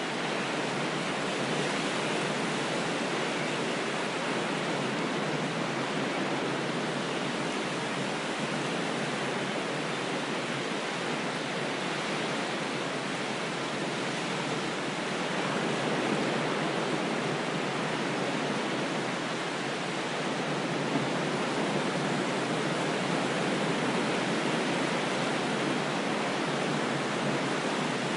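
Steady rushing water, an even hiss without separate wave breaks, played as calming wave sounds.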